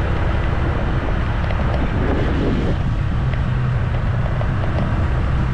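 A vehicle's engine running steadily while driving along, with wind noise on the microphone.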